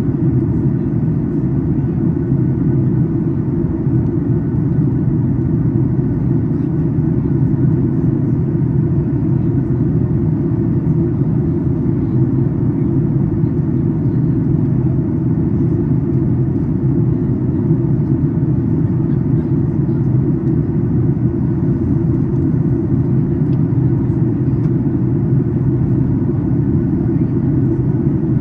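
Steady, low cabin rumble inside a Boeing 737 MAX 8 in descent: airflow over the fuselage and the CFM LEAP-1B engines, unchanging throughout.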